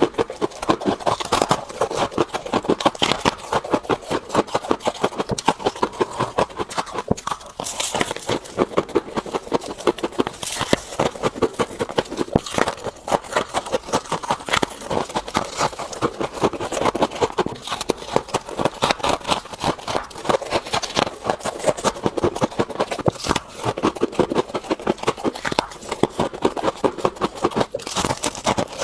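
A person chewing frost scraped from a refrigerator freezer: rapid, continuous crunching close to the microphone, with a few louder bites along the way.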